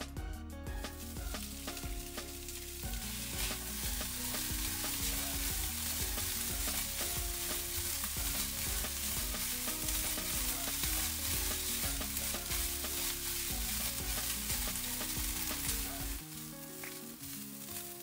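Konjac rice sizzling in hot oil in a nonstick wok, stirred and scraped with a silicone spatula. The sizzle starts about a second in and fades near the end, over soft background music.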